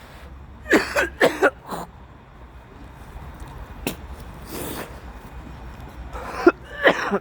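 A man coughing repeatedly in short, harsh fits with pauses between them: a bad cough.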